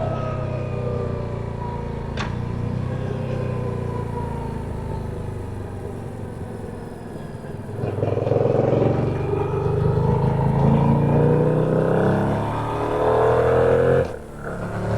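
2025 Yamaha MT-07 Y-AMT's parallel-twin engine heard from onboard, its pitch falling as the bike slows through the first half. About eight seconds in it opens up, louder and rising in pitch, with a brief drop near the end as it shifts up a gear.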